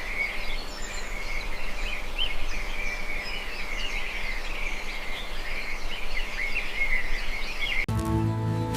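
A chorus of many birds chirping over a faint outdoor hiss. It cuts off suddenly near the end, and music begins.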